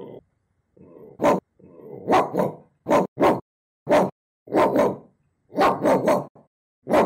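A human voice imitating a dog, barking 'woof' calls in a sung rhythm like a melody: about a dozen short, loud barks, some single and some in quick pairs or triples, after a fainter low bark about a second in.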